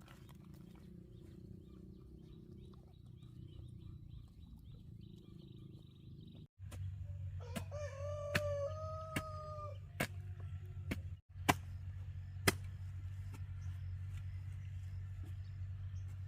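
A rooster crows once, partway through: a call that rises, then holds for about two seconds. Several sharp knocks sound over a steady low rumble.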